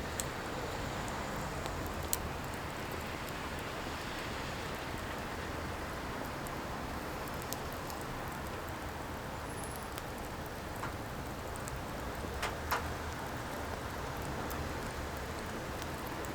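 Firewood fire burning with a steady hiss and a few sharp crackles and pops, two of them close together near the end.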